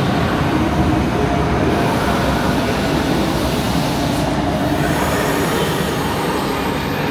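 Renfe Series 446 electric commuter train running along the platform beside the listener, a steady loud rumble of wheels on rails and running gear as its carriages go by.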